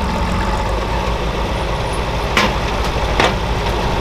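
Pulling tractor's engine idling with a steady low pulse, with two sharp knocks about two and a half and three seconds in.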